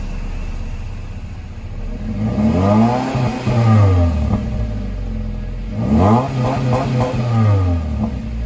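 Subaru Impreza GT's flat-four engine revved twice from idle through an STI rear-section exhaust. The pitch climbs and falls back about two seconds in, then a second, shorter rev about six seconds in, settling back to a steady idle between and after.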